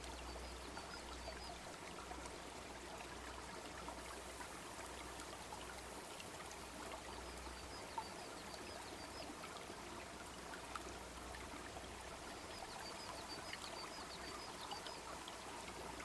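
Small brook babbling steadily, with a wood fire crackling now and then. One sharper crack comes about halfway through.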